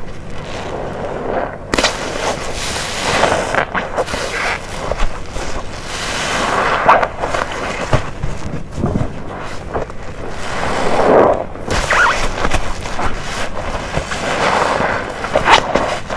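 Wet waffle-textured car-wash sponge full of detergent being squeezed and released close to the microphone: squelching with crackling pops, in about four swells a few seconds apart.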